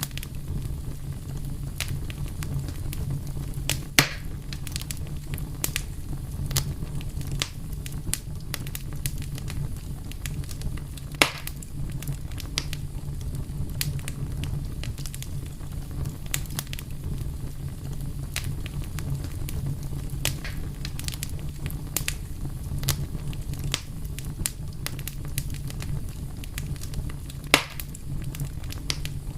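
Wood fire burning with a steady low rumble and frequent irregular crackles, including three louder pops at about 4, 11 and 27 seconds in.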